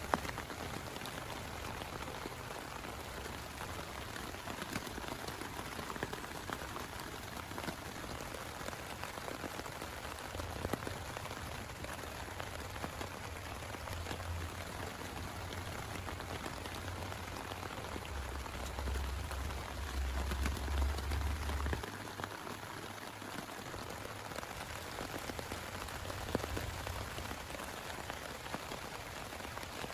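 Heavy rain falling steadily, with many individual drops ticking through the steady hiss. A low rumble swells and fades about twenty seconds in.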